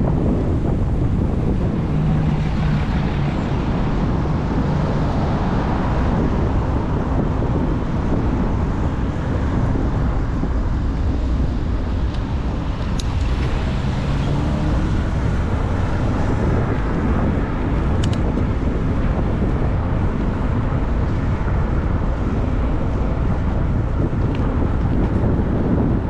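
Steady wind rumbling on the microphone of a camera riding on a moving e-bike, with road traffic noise underneath.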